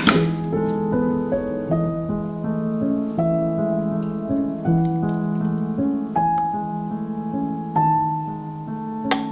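Soft background piano music with slow, sustained notes, and a sharp click at the start and another near the end.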